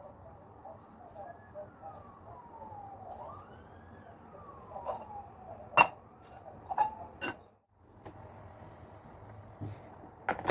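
A faint siren wails, falling and rising in pitch, followed by three sharp clinks of kitchenware and one more near the end.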